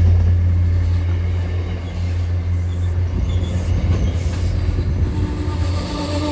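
Passenger train running past on the rails, a loud deep steady drone with wheel-on-rail noise. Near the end a locomotive horn starts sounding a multi-note chord.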